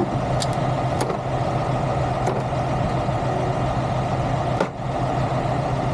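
A truck's diesel engine idling steadily, with a few sharp metallic clicks from parts and tools being handled, the last and loudest near the end.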